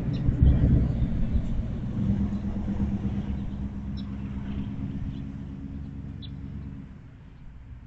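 Low engine rumble of a motor vehicle, with a steady hum that fades away near the end.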